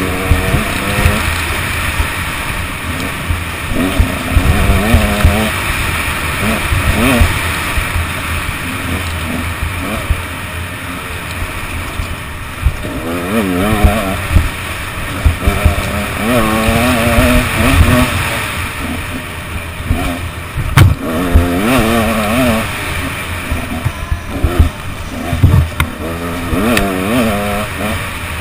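KTM 125 EXC two-stroke enduro motorcycle engine revving up and falling back again and again as the bike is ridden hard over a rough dirt trail. Wind hiss on the helmet-mounted microphone and frequent knocks from bumps run underneath.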